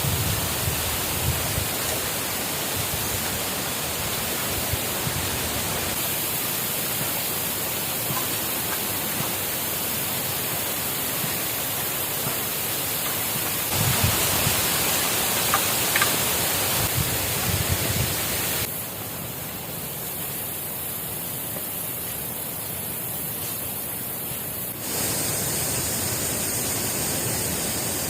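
Steady rushing of water, a continuous hiss with no distinct events; its level and tone change abruptly several times, dropping about two-thirds of the way through and rising again near the end.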